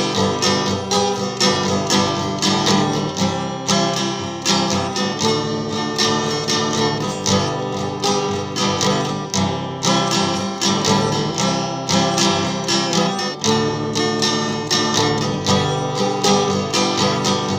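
Instrumental break in a country-folk song: acoustic guitar strummed in a steady rhythm, with no singing.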